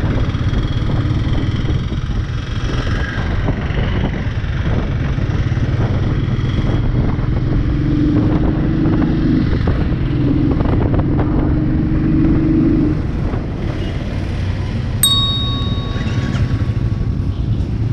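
Royal Enfield 350 single-cylinder motorcycle engine running steadily while riding on the road. About three-quarters of the way through, a high steady beep sounds for a couple of seconds.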